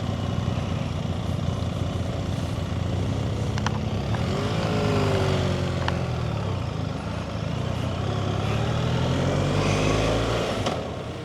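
Motorcycle engine running on the move, its pitch rising and falling in the middle of the clip, over a steady rush of road and wind noise.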